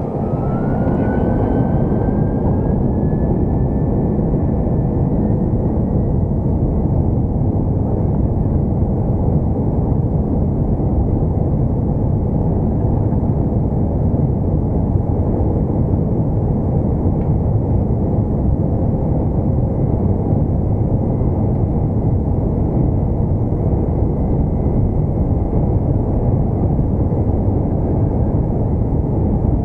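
Airbus A330-200's twin turbofan engines spooling up to takeoff thrust, heard from the cabin: a whine rising in pitch over the first few seconds as the noise jumps louder, then a steady, loud, even engine roar.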